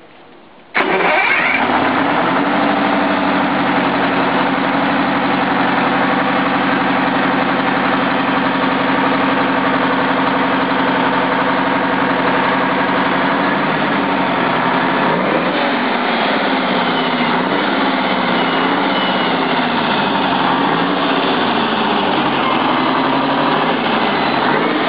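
Detroit Diesel V8 turbo diesel engine firing up suddenly about a second in and running at a steady idle. From about halfway on, its speed rises and falls a little.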